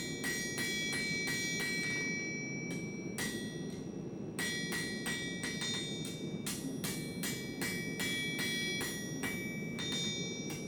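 Blacksmith's hammer striking steel on an anvil at about two to three blows a second, each blow ringing. The hammering slows to a few scattered blows for about two seconds, then picks up again. A steady low rushing noise runs underneath.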